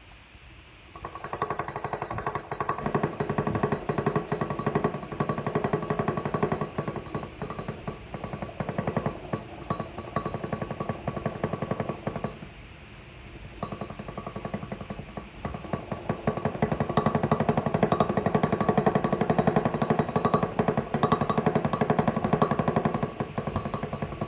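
Free-piston Stirling engine running, its piston rattling in a fast, even buzz over a steady hum. It drops out for about a second halfway through, then picks up again.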